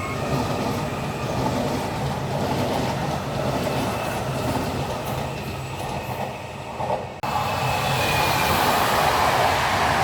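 Train running on the rails, with a steady low rumble and wheel-on-track noise. About seven seconds in, the sound jumps abruptly louder and brighter.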